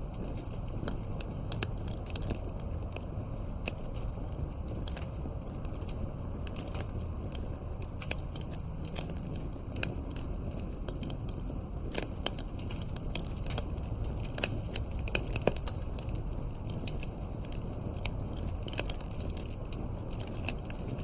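Wood campfire crackling, with irregular sharp pops and snaps over a steady low rumble of burning.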